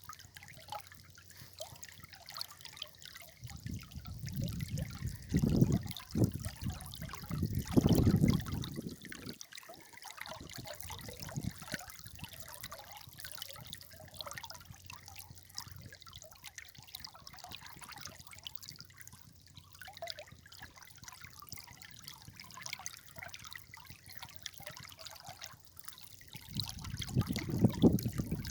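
River water trickling and babbling steadily. Low rumbling surges come in twice, about four to nine seconds in and again near the end.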